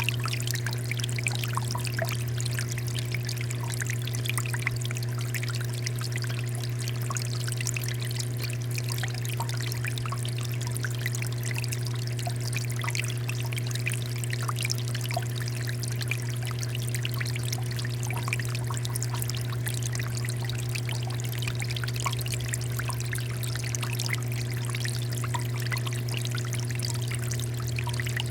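Water fountain flowing steadily, water pouring and trickling with many small splashes. A steady low hum runs underneath.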